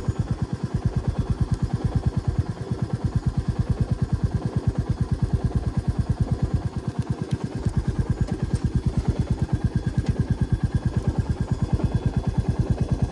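Motorcycle engine idling, its exhaust beating at an even, steady rhythm.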